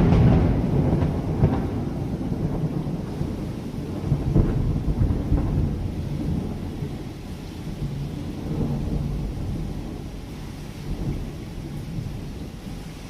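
Thunder from a nearby lightning strike rumbling and slowly dying away, with a few fresh swells of rumble as it rolls on.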